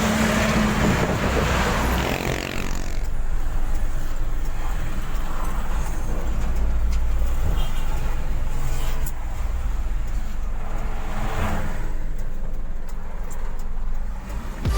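Truck engine running steadily while driving, a constant low rumble with road and traffic noise over it.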